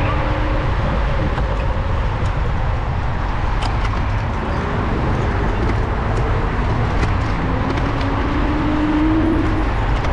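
Road traffic with a steady low rumble; near the end, a passing vehicle's engine note climbs slightly in pitch.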